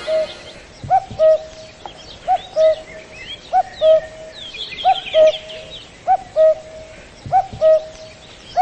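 Common cuckoo calling 'cuck-oo' over and over, a short higher note dropping to a longer lower one, about seven calls spaced a little over a second apart. Smaller birds chirp faintly behind it.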